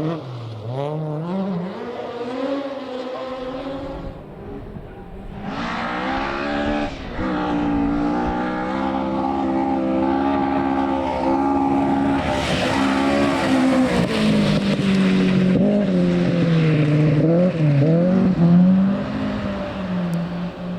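Rally car engine at full throttle passing close by, its note climbing and then holding high. A loud hiss rises over it for a few seconds in the middle, after which the engine note drops and wavers up and down.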